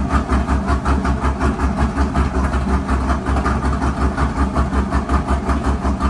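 Chevrolet Camaro SS 1LE's 6.2-litre V8 idling steadily through new 2-inch long-tube headers and a 3-inch X-pipe, a deep, evenly pulsing exhaust note. The engine is still warming up from a cold start and is not revved.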